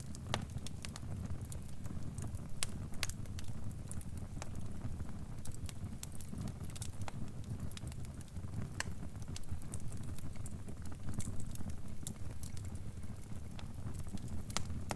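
Crackling fire: irregular sharp pops and crackles, several a second, over a steady low rumble.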